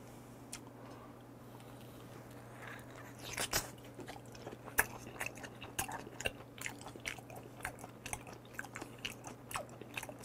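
Close-miked chewing of raw deep-sea shrimp (ttak-saeu sashimi): a quick run of mouth clicks, several a second, starting about three seconds in.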